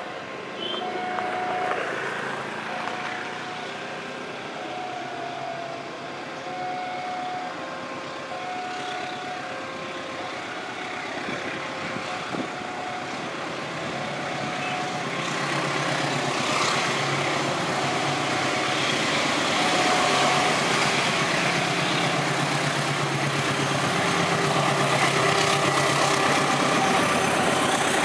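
Level-crossing warning alarm repeating a two-note tone about once a second. From about halfway, the diesel locomotives of a double-headed fuel tank train grow steadily louder as they approach and pass, with wheels running on the rails.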